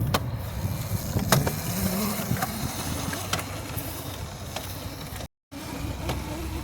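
Razor MX350 electric mini dirt bike riding: a motor whine that rises and falls in pitch over a steady low rumble, with a few sharp clicks and rattles. The sound drops out completely for a moment near the end.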